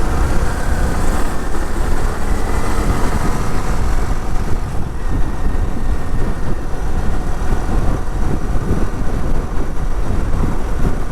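Motorcycle running steadily at road speed, with wind buffeting the microphone.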